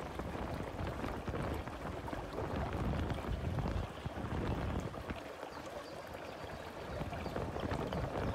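Wind buffeting the microphone on a moving motorcycle, a steady rushing noise with the bike's road and engine noise underneath; it eases off for a few seconds around the middle.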